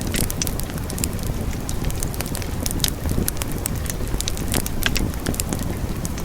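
Wood fire burning in a fireplace: a steady low roar of flames with frequent irregular crackles and pops from the burning logs.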